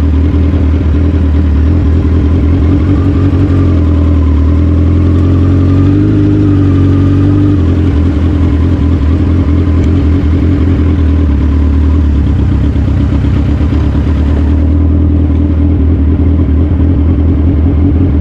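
Suzuki Hayabusa motorcycle's inline-four engine running steadily, its pitch rising and falling slightly a few seconds in.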